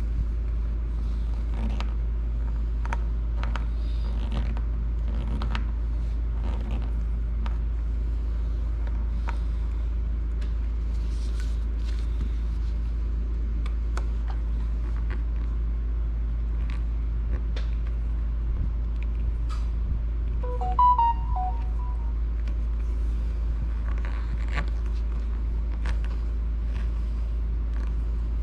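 Small clicks and scrapes of a tri-wing screwdriver working the back-shell screws of a Nintendo Switch, over a steady low hum. A brief electronic tone of a few notes sounds about 21 seconds in.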